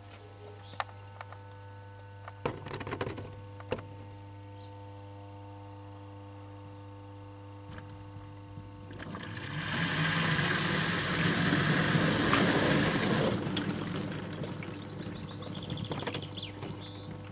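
Household washing appliance running with a steady hum and a few clicks. About nine seconds in, water rushes loudly through it for about five seconds, then eases off.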